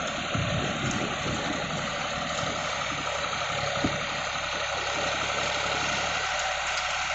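John Deere 5045 4WD tractor's diesel engine running steadily.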